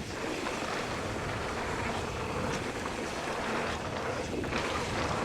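Steady wind rush on a helmet- or bike-mounted action camera's microphone while riding a mountain bike downhill, with tyre and trail noise and a few faint knocks from the bike.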